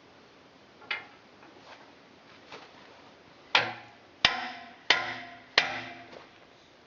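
A few faint knocks, then four hard, evenly spaced strikes about two-thirds of a second apart, each ringing briefly.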